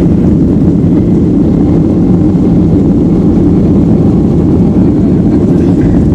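Jet airliner's engines and airflow heard from inside the passenger cabin as a loud, steady, low rumble, typical of the takeoff roll and climb.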